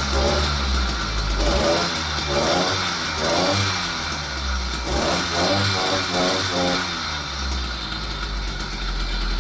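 80cc two-stroke motorized bicycle engine running, revved up and down in a quick run of throttle blips, then settling back to a steady idle near the end. It has just been brought back to running after sitting unused for years.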